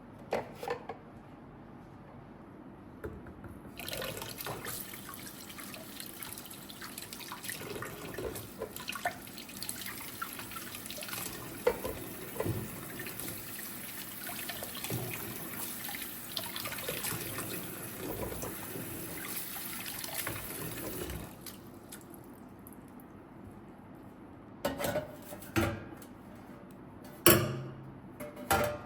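Kitchen tap running into a sink, water splashing over produce being rinsed, with small knocks, for about seventeen seconds before it shuts off. A few sharp knocks and clatters follow near the end.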